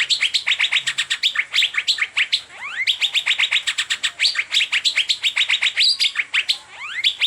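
Asian fairy-bluebird (cucak biru) calling in a rapid, steady string of sharp chirps, about ten a second, broken now and then by quick rising whistles.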